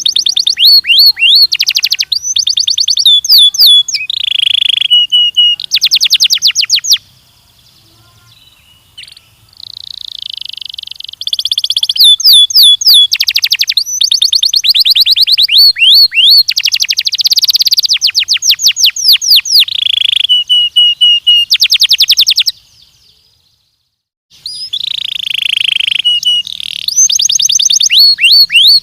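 Belgian canary singing: loud, fast trills and rolls of rapidly repeated notes, broken by two short pauses, the first about seven seconds in and the second about twenty-two seconds in.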